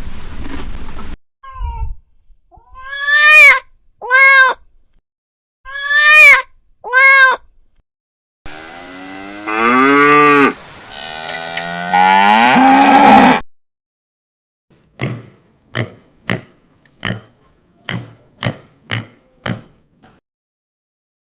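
A string of separate animal calls. First come four short calls that rise and fall in pitch, in two pairs. Then a cow gives a long moo that bends in pitch, and near the end comes a quick run of about nine short, sharp sounds.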